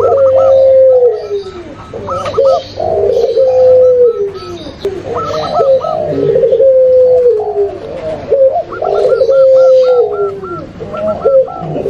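Several doves cooing together: zebra dove, spotted dove and puter pelung (long-voiced Barbary dove) calls layered over one another. Repeated falling coos overlap continuously, with quicker stuttering note series higher up.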